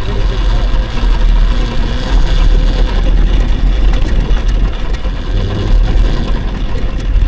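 Electric dirt bike riding over rough dirt: a rattling chain and drivetrain with a faint steady motor whine, under heavy wind rumble on the microphone.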